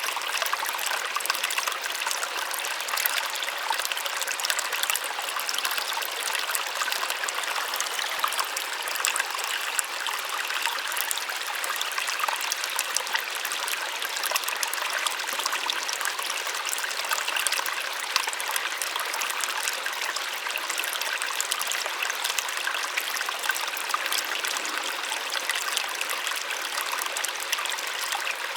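Small waterfall splashing steadily: a soft, even rush of falling water with fine splashes and almost no deep rumble.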